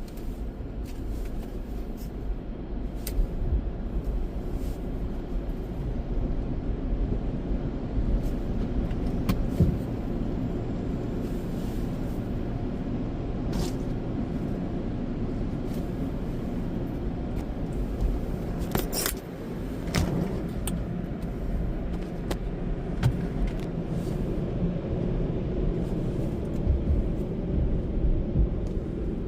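Steady low rumble heard inside a car, with scattered light clicks and a sharper knock about two-thirds of the way through.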